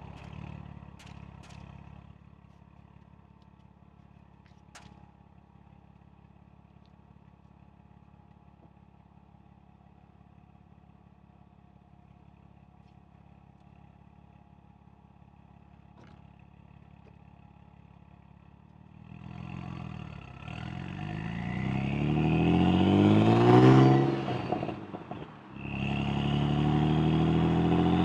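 Saab Turbo X's turbocharged B284 V6 on a 3.5-inch downpipe, mid pipe and Hirsch axle-back exhaust, idling quietly with a few light clicks, then about two-thirds of the way in revving up hard twice, the pitch rising each time before dropping off.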